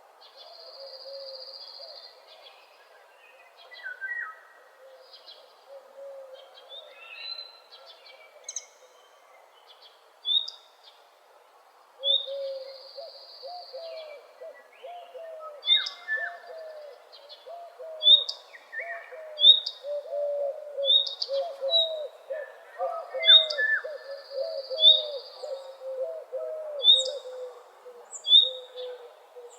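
Several wild birds singing and calling together at dawn: a short sharp high note repeated about once a second through the second half, buzzy high trills now and then, and lower warbling notes underneath that grow busier about halfway through.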